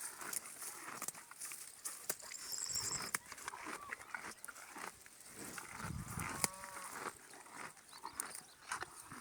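A cow mooing once, a low call about six seconds in, with scattered clicks and knocks around it.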